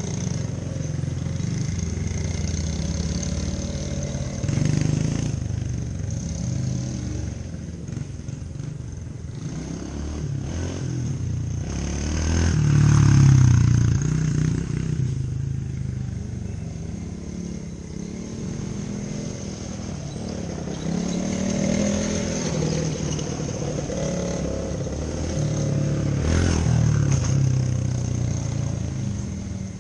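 Small off-road engine running and revving up and down, loudest about halfway through.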